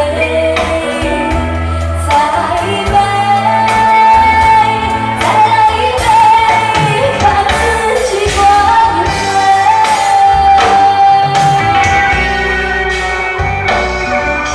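A singer sings a pop song over backing music with bass and drums, holding long notes.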